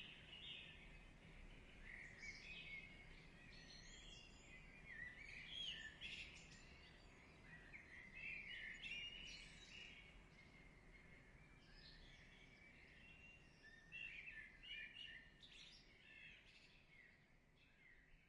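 Faint birdsong: several small birds chirping and twittering in quick, high calls, thinning out toward the end.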